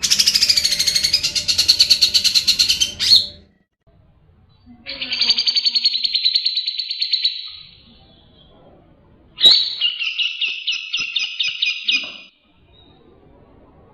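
Cucak jenggot (grey-cheeked bulbul) singing in three loud bursts of about three seconds each. Each burst is a rapid run of repeated chattering notes, and short pauses fall between them.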